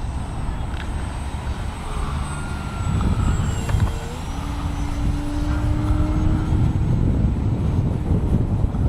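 Electric motor and propeller of a ParkZone P-47 RC model plane in flight, a faint whine that shifts in pitch, under heavy wind buffeting the microphone.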